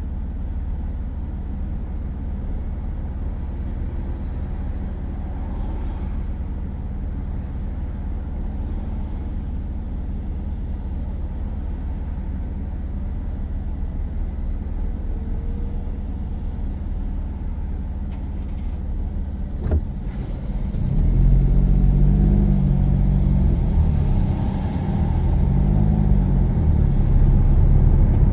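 Car engine and road noise heard inside the cabin, steady at first. Just after a single click about two-thirds of the way in, it gets louder as the car accelerates. The engine note rises, drops at a gear change and rises again.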